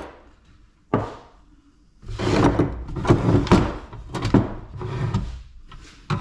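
A stubborn piece of scrap being forcibly knocked and wrenched apart: a single sharp knock about a second in, then several seconds of rough clattering and banging.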